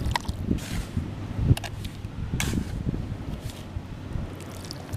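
Wind buffeting the microphone, with a few short swishes about half a second, one and a half, and two and a half seconds in.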